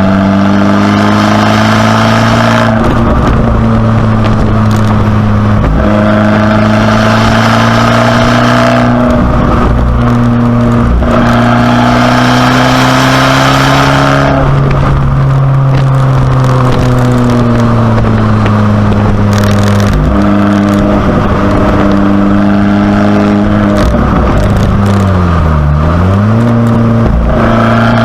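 2019 Abarth 595C Competizione's 1.4-litre turbocharged four-cylinder running loud through its Record Monza exhaust while being driven. The engine pitch climbs and falls with several short breaks like gear changes, and near the end the revs dip sharply and climb back.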